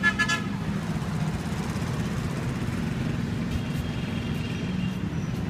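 Road traffic on a busy highway: a steady drone of engines from passing vehicles, with a vehicle horn ending about half a second in and a fainter high horn-like tone later on.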